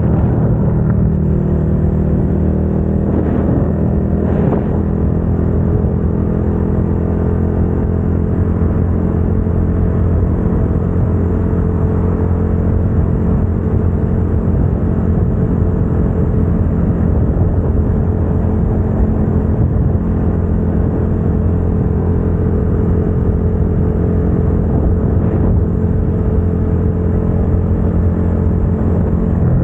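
2022 Suzuki SV650's 645 cc V-twin engine running through a Dominator GP aftermarket exhaust, held at a steady cruising pitch with only a brief change a few seconds in.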